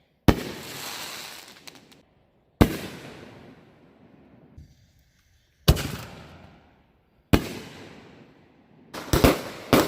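Fireworks going off: four sharp bangs two to three seconds apart, each followed by a long fading tail, then a quick burst of several bangs near the end.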